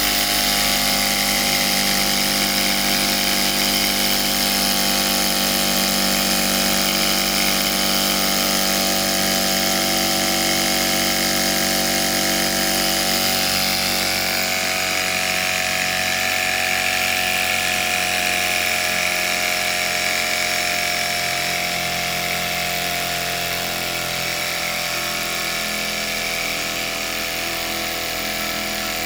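Gas-fired Mamod SP6 miniature stationary steam engine with a double-acting cylinder, running fast and steadily with a high whirring hum. Its pitch drops a little about halfway through as it slows slightly.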